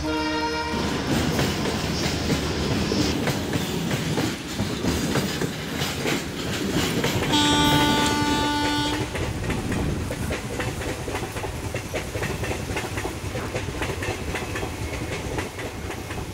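A train horn sounds briefly at the start and again for about two seconds midway, over the rumble of a passing train and the clickety-clack of its wheels over rail joints.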